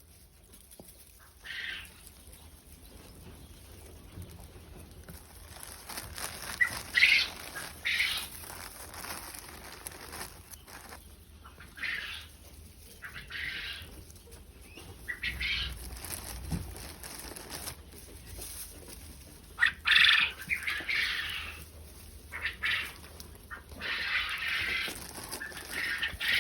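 Quail moving about in their pen, with irregular bursts of wing flapping and scuffling.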